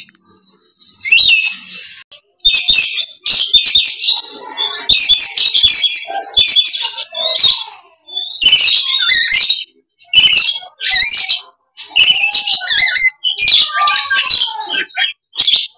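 Lories screeching: harsh, high-pitched squawking calls in bursts of a second or so, one after another with short gaps, starting about a second in. A lure recording for attracting lories such as the dusky lory.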